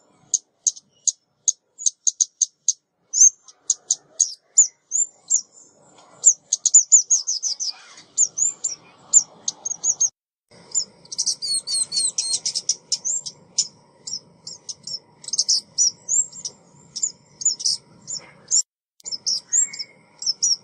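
Lure recording of a female ốc mít bird calling: rapid, high-pitched chirps and short twittering runs, several notes a second, with a denser burst of twittering about eleven seconds in.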